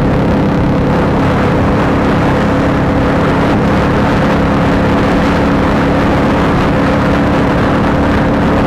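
Honda CBR150R's single-cylinder engine through an Akrapovic aftermarket exhaust, running at a steady speed with an even, unchanging note over a steady rushing noise.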